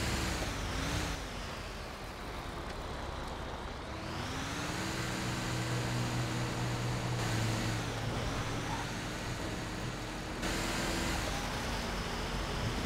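Heavy military truck engine under way, its pitch rising as it accelerates and dropping at each gear change, several times over.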